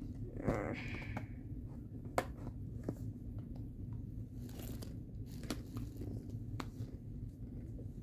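Butter toffee popcorn being bitten and chewed: a few scattered, crisp crunches spaced out over several seconds.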